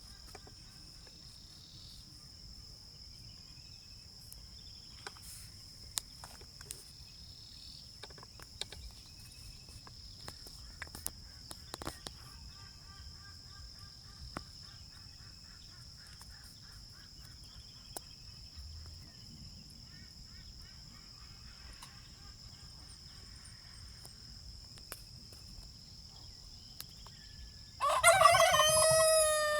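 Farmyard poultry outdoors: faint scattered clucks and rapid pulsed calls over a steady high hiss, with a few light knocks. Near the end a rooster crows loudly, one long crow that falls away at its close.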